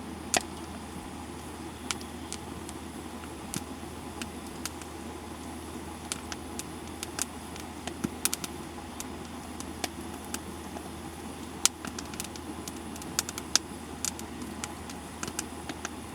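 Wood campfire crackling, with sharp pops at irregular intervals, the loudest about twelve seconds in, over a steady low rumble.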